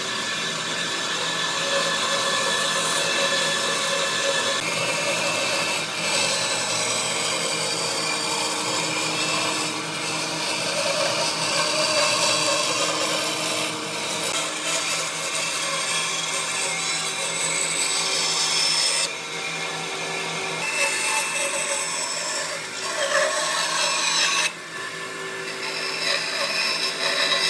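Power tools working wood: a steady motor whine over a rasping cutting and sanding noise. The sound changes abruptly several times.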